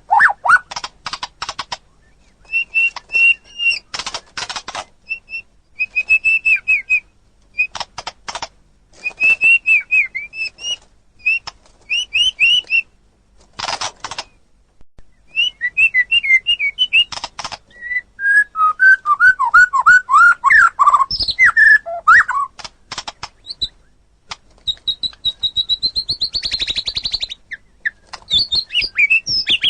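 White-rumped shama singing: a varied song of clear whistled phrases, rapid clicking rattles and a buzzy trill, with short pauses between phrases.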